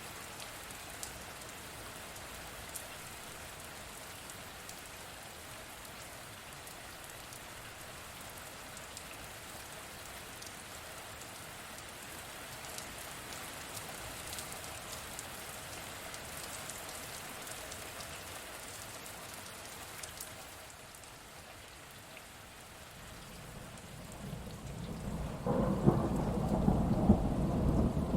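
Steady rain falling, with scattered drop ticks. Near the end, a loud, low rumble of thunder sets in.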